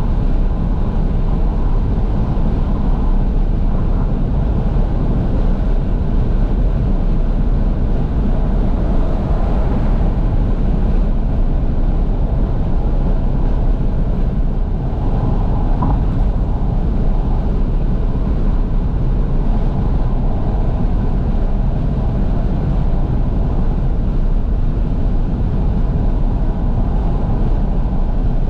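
Steady wind rush and road noise inside a moving Fiat 500S driving with all its windows wide open, the engine running underneath.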